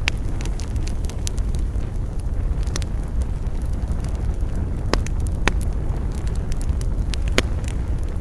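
Wood campfire burning: a steady low rumble with irregular sharp crackles and pops of burning wood, a few louder pops about five seconds in and again near the end.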